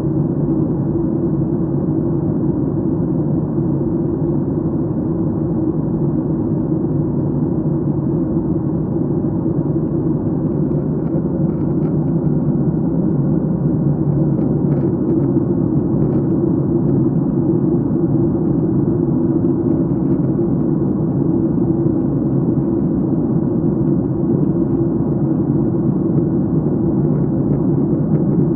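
Steady low rumble of airliner cabin noise in flight, heard from a window seat, with a few faint ticks about halfway through.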